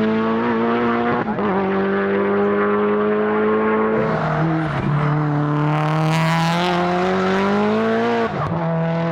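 Time-attack race car engine at high revs under full throttle, its pitch climbing slowly and dropping sharply at gear changes, about a second in, at about four seconds and near the end.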